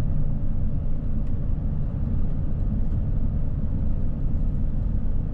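Steady low rumble of engine and road noise inside an RV driving along a highway.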